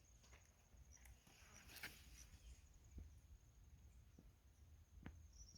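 Near silence: faint outdoor ambience with a steady high-pitched whine, a low rumble and a few faint ticks.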